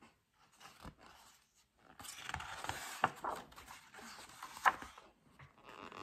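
Picture-book pages being turned: paper rustling and sliding for about three seconds with a few sharp flaps, after some light handling clicks.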